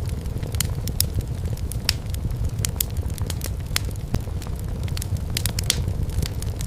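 Wood fire crackling in a fireplace: frequent sharp, irregular pops and snaps over a steady low rumble of burning logs.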